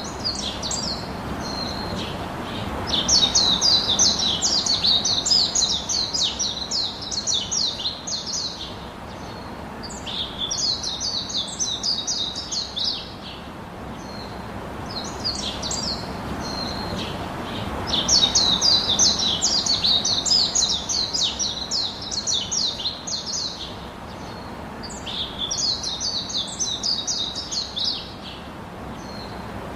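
Bird song in repeated phrases of rapid high chirps, each phrase lasting a few seconds with short pauses between, over a steady background hiss.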